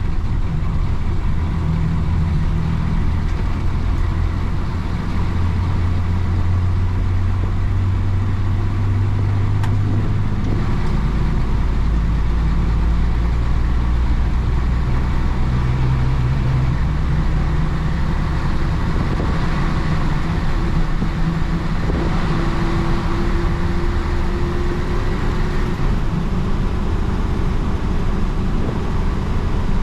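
Engine of a 1966 Isuzu BXD30 bonnet bus, its DA640 six-cylinder diesel, running under way with a loud, steady drone. The engine note drops about ten seconds in and rises again later as the bus changes speed.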